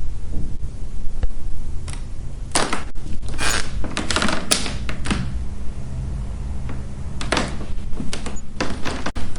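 Footsteps on a wooden floor, hard knocks and thuds at a walking pace that grows uneven, with a steady low hum underneath.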